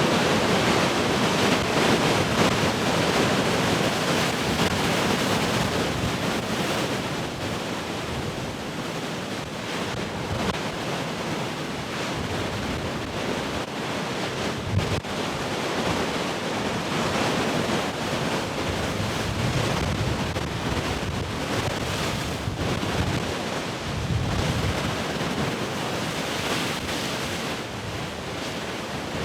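Ocean waves breaking and surf washing in a continuous rush, loudest in the first few seconds as a wave breaks, then settling. Wind gusts buffet the microphone.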